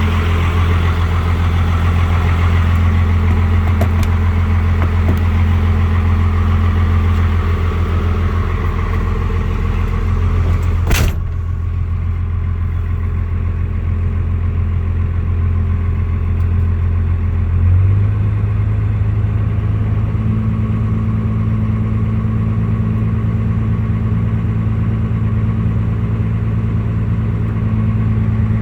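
12-valve Cummins inline-six diesel idling cold, with diesel clatter. A single thump comes about a third of the way in, after which the sound is duller, and a little past the middle the idle steps up to a slightly higher, steady speed.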